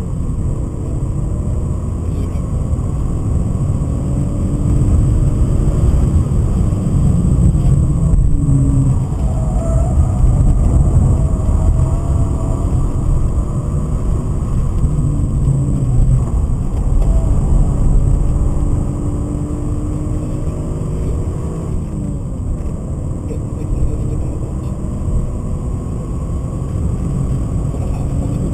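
BMW 528i's M52B28 straight-six heard from inside the cabin at track speed, its pitch rising and falling as the driver accelerates and lifts, over a heavy low rumble of road and tyre noise.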